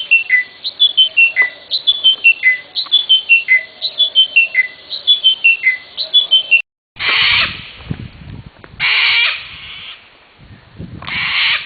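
Bird calls: a short run of three or four clear notes stepping down in pitch, repeated about once a second. After a brief break come three harsh squawks a couple of seconds apart.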